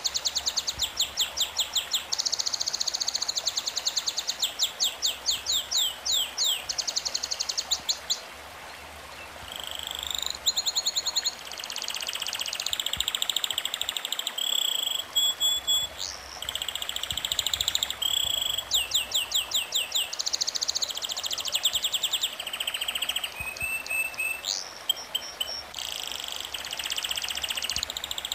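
Birds singing: high, rapid trills of repeated notes and quick sweeping calls, phrase after phrase, with a brief lull about nine seconds in.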